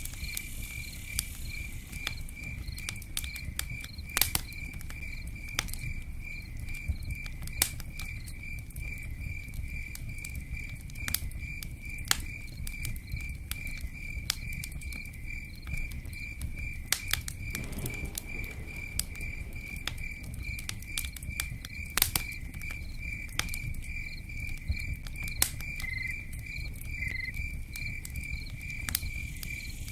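Campfire crackling with scattered sharp pops over a low steady rumble, while crickets chirp in a steady, even pulse throughout.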